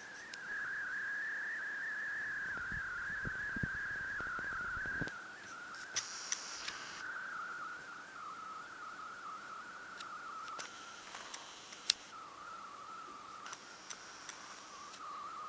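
A steady, slightly wavering high whistle that slowly drifts lower in pitch, recorded onto the Samsung WB2000 compact camera's video soundtrack: a recording fault of the camera, not a sound in the room. A few faint clicks and short hissy bursts sound over it, and it gets quieter about five seconds in.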